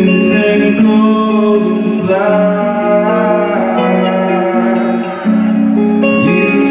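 Live band music: guitar accompaniment under a sung melody, with held notes and vibrato.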